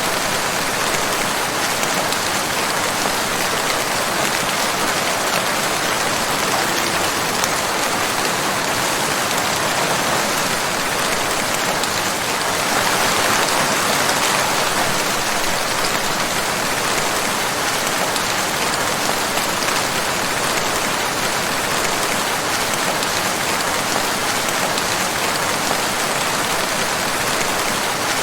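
Steady rain falling, an even dense hiss of drops that swells slightly about halfway through.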